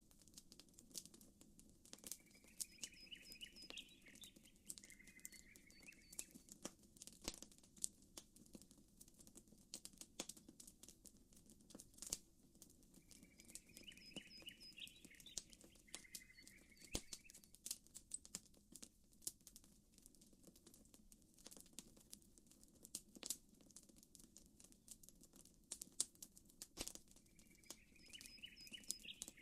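Campfire crackling, with many sharp pops and snaps scattered throughout over a faint low rush of water. A bird's short chirping phrase comes in pairs about every twelve seconds.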